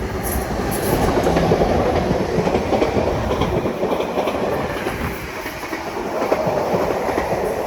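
Class 745 electric multiple unit rolling through the station on its way in, wheels rumbling and clacking over the rail joints.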